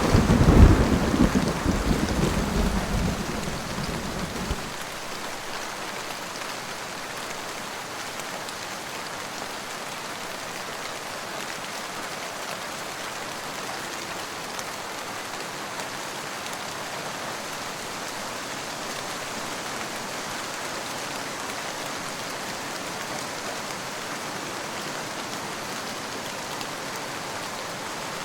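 Steady rain with a rumble of thunder that fades out over the first four or five seconds, leaving an even hiss of rain.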